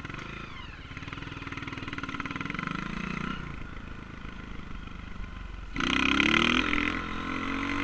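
Honda CRF230 dirt bike's single-cylinder four-stroke engine running and revving: the pitch climbs over the first few seconds, then eases off. About three-quarters of the way through it suddenly gets louder.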